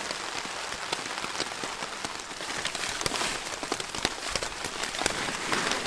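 Heavy rain falling on a camping tarp: a dense steady hiss with many sharp taps of individual drops striking close by.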